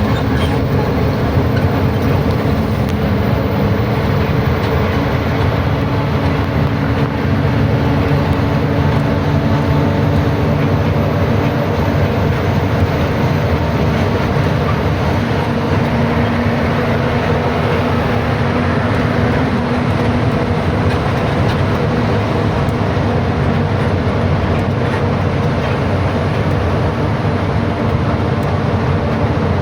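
A heavy truck on the move: a steady drone of engine and road rumble, with the engine note shifting slightly at times.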